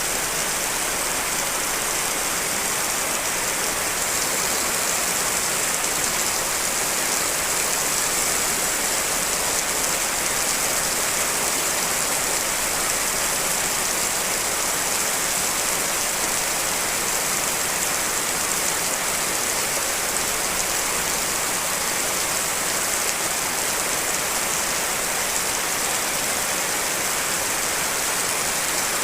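Steady rain in a layered mix of rain recordings: an even, unbroken hiss of falling rain, strongest in the upper range, with no single drops standing out.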